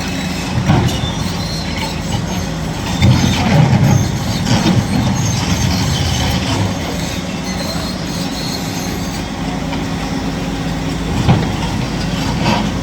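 Kobelco SK 850 demolition excavator working on concrete: its diesel engine runs steadily under load while its attachment crunches and breaks concrete, with a loud burst of crashing about three seconds in and another near the end, and short high-pitched metallic squeals.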